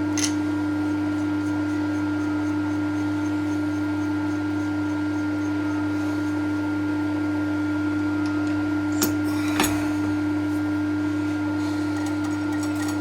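TOS milling machine running steadily with a constant hum and a steady whine, with a few sharp metallic clicks about nine to ten seconds in.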